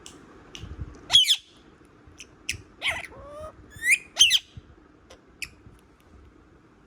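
Parrot calling in a series of short, sharp squawks and chirps, some sweeping up or down in pitch, loudest about a second in and again around three to four seconds in, then falling quiet over the last couple of seconds.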